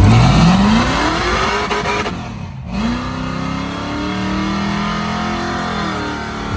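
A vehicle engine revs up, its pitch climbing steadily for about two seconds, then after a brief break holds a high, steady note with a slight dip near the end.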